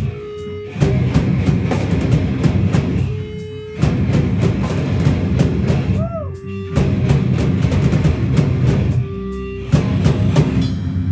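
Hardcore band playing live: distorted guitar, bass and drum kit in heavy stop-start hits. Four short breaks each leave a single held guitar note ringing, and the one about six seconds in holds a note that slides up and back down.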